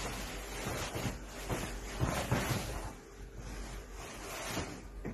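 Steady hiss of background noise, with a few soft low thumps around the middle.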